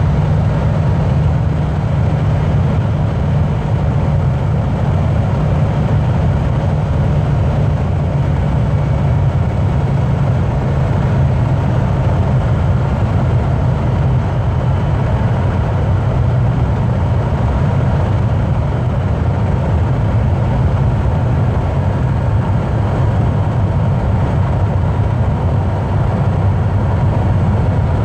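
Steady low rumble of a car's engine and tyres at motorway speed, heard from inside the cabin.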